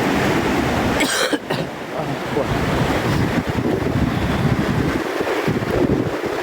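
Ocean surf washing up the beach, with wind buffeting the microphone; a short burst of hiss about a second in.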